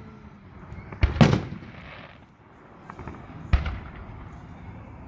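Aerial firework shells bursting: two booms in quick succession about a second in, and another about two seconds later, each trailing off as it fades.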